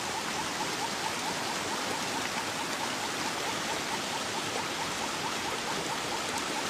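Heavy rain falling steadily, with a faint regular ticking, about four a second, behind it.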